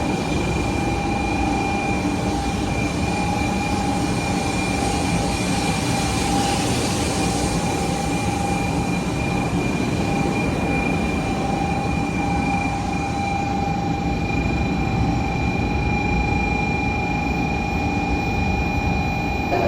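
Shinkansen train running into the platform: a steady rumble with a high whine held throughout.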